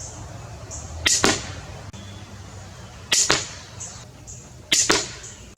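Cobra pistol crossbow fired three times. Each shot is a sharp snap of the string's release, followed about a fifth of a second later by a second crack as the bolt strikes the target.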